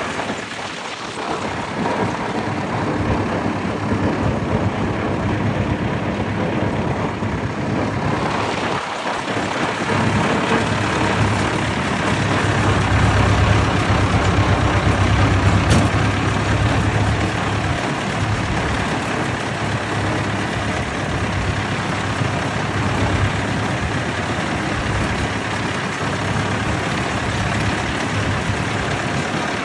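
Vintage tractor engines running steadily, with one engine's low hum growing louder about twelve seconds in and easing off again some five seconds later.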